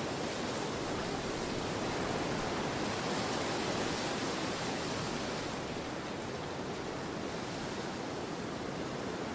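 Storm wind rushing steadily, swelling a little in the middle and easing slightly in the second half.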